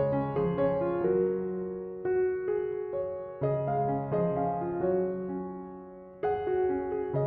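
Background piano music: a slow, gentle melody of struck notes left to ring, with a new chord every couple of seconds.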